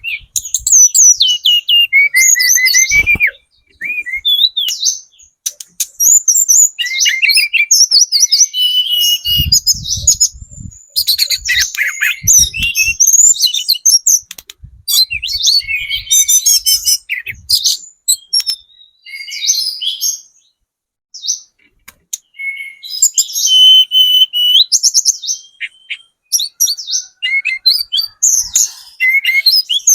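Hill blue flycatcher (tledekan gunung) singing in long bouts of rapid, varied whistled phrases and fast trills, with short pauses between bouts. A few low thumps sound about nine to thirteen seconds in.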